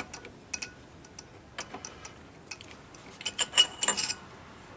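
Light metallic clicks and ticks of a long-reach spark plug wrench and spark plug as the plug is threaded back into the generator engine's cylinder head by hand, with a quicker cluster of clicks about three seconds in.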